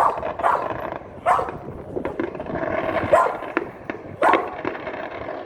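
A dog barking about five times at irregular intervals, over a steady background hum.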